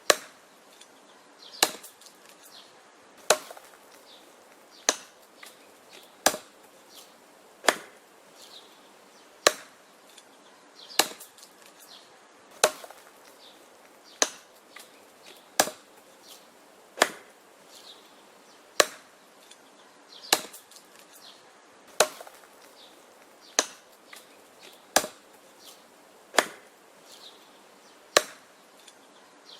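Wood being chopped: steady, sharp chops about every one and a half seconds, each with a short ring, and fainter small knocks between the strikes.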